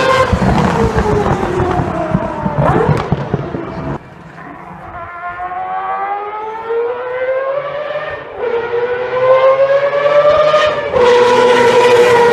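Mazda 787B's R26B four-rotor Wankel racing engine at high revs with a high, screaming note. The pitch falls over the first few seconds, the sound drops away suddenly about four seconds in, then the note climbs steadily through the gears and is loud again near the end.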